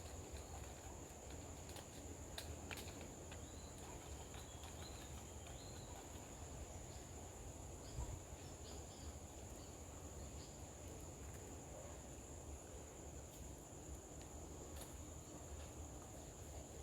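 Steady high-pitched insect drone, with a few faint short bird chirps about three to five seconds in and scattered soft clicks.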